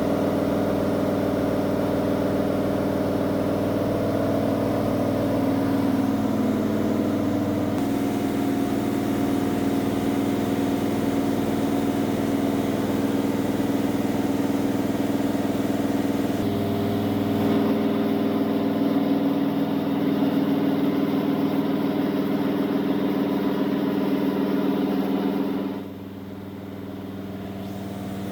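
Race car engine running on a dynamometer during its break-in, holding a steady speed with small steps in pitch twice. About 26 seconds in it drops back sharply, then begins to build again.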